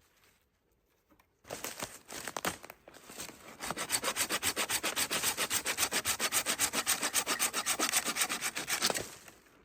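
Hand saw cutting through wood. A few uneven strokes start about a second and a half in, then it settles into fast, even back-and-forth strokes and stops near the end.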